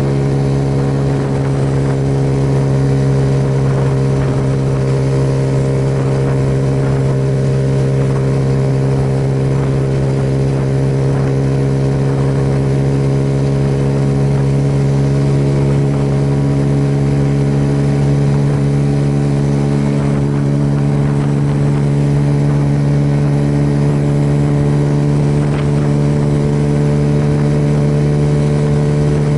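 Suzuki Yes motorcycle's single-cylinder engine running at a steady cruising speed, its pitch holding and creeping slightly higher near the end, over a steady hiss of wind and road noise.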